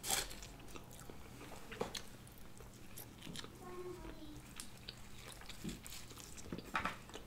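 Close-miked eating: people chewing naan and samosa, with scattered soft mouth clicks and a louder bite right at the start.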